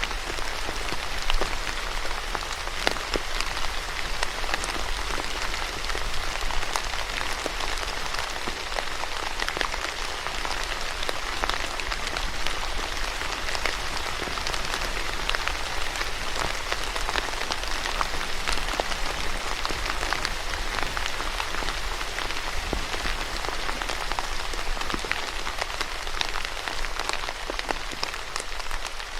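Steady rain falling on a surface, a dense patter of individual drops over a continuous hiss.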